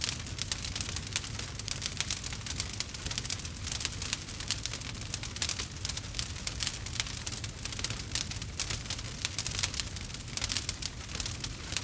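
Campfire burning wood, crackling with dense, irregular pops and snaps over a low steady rumble.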